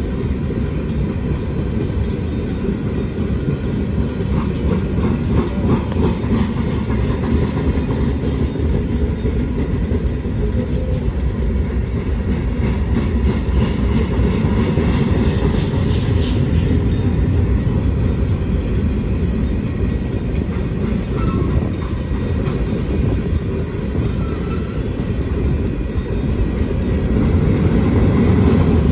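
Freight cars of a New York, Susquehanna & Western freight train rolling through a grade crossing. A steady low rumble of wheels on rail with clatter, a little louder near the end.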